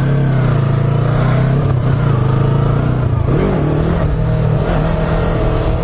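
Small sport bike's engine running steadily at a fairly constant pitch, with a brief wavering of the pitch about three seconds in.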